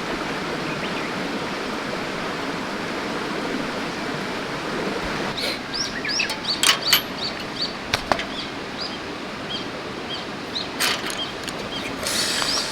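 Mountain stream rushing steadily. From about five seconds in, a run of short high chirping calls repeats over it, with a few sharp clicks.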